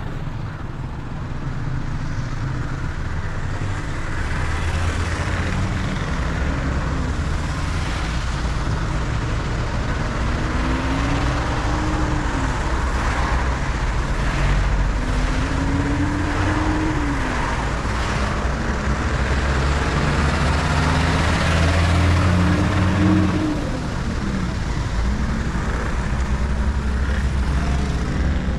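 A road vehicle driving, with steady road and tyre noise and an engine hum that rises and falls in pitch several times.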